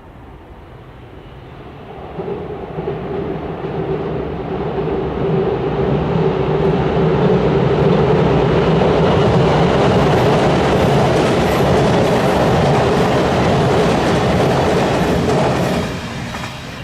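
Train passing over a railway bridge: the rumble builds from about two seconds in, runs loud with a steady tone through the middle, and falls away sharply near the end as the train clears.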